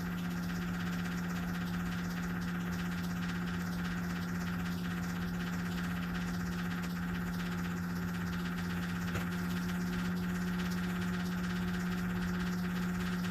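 Steady, even hum from the vehicle's electrical system while the glow plugs preheat the cold diesel, before any cranking.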